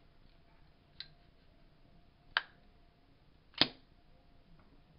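Three sharp clicks, a little over a second apart, the last one loudest, over a faint steady hum.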